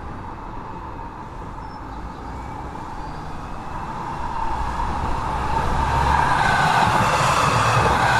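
Steady rumble and rush of a Talgo sleeper train running, heard from inside the compartment, getting louder over the second half.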